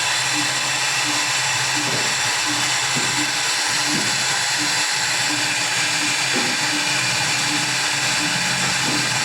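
CNC router spindle running steadily while the machine cuts, a continuous high whirring hiss with a faint low pulse repeating a little under twice a second.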